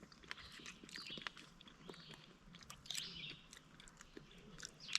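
Faint chewing and eating sounds from people starting a meal, with scattered small clicks throughout.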